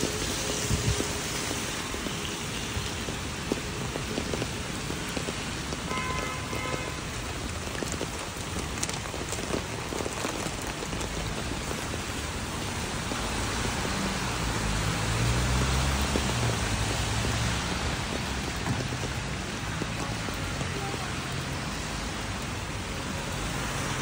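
Steady rain falling on wet pavement, a continuous hiss. A short run of high electronic beeps comes about six seconds in, and a low hum swells and fades past the middle.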